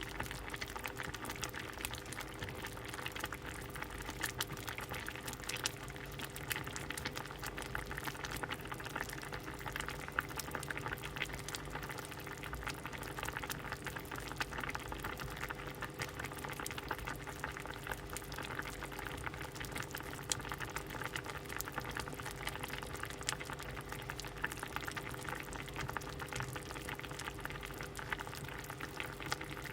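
A pot of soup boiling steadily: a continuous bubbling and popping at a rolling boil, with a faint steady hum underneath.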